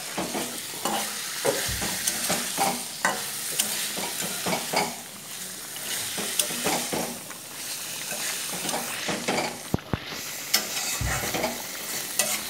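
Chicken curry sizzling in oil in a kadai while a metal spatula stirs it, scraping and clicking against the pan many times over the steady sizzle.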